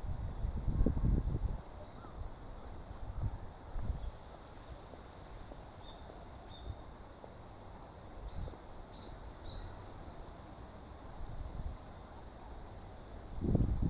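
Steady high-pitched insect chorus, with low gusts of wind buffeting the microphone near the start and again near the end, and a few short high chirps about eight to nine seconds in.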